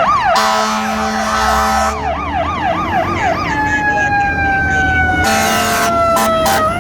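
Fire apparatus electronic siren on yelp, switching about three and a half seconds in to a slow falling wail, with long air horn blasts over it near the start and near the end, the last one broken into short blips.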